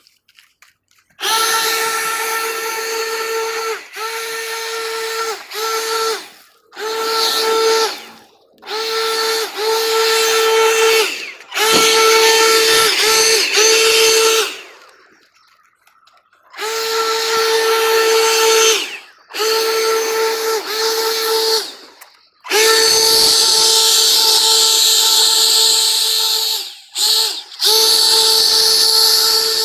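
Leaf blower run in repeated blasts of one to six seconds, each a steady high whine with a rushing hiss, cutting off sharply between blasts; the longest blast comes near the end.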